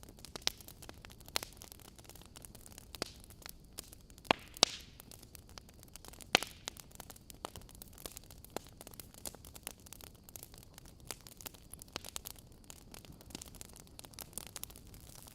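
Wood fire crackling in a fireplace: irregular sharp pops and snaps, a few louder ones about four to six seconds in, over a low steady hiss.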